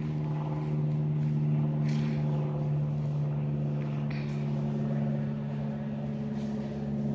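An engine running at a steady speed with an even hum, with a few short sharp clicks or knocks over it.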